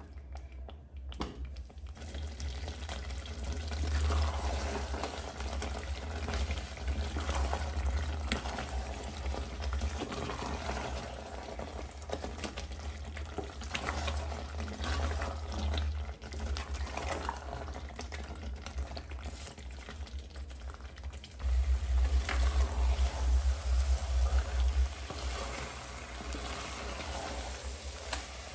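Mutton and masala sizzling and bubbling in an open pressure cooker while a wooden spatula stirs and scrapes against the pot, frying the meat down until the moisture cooks off. A low rumble swells at times and is loudest for a few seconds late on.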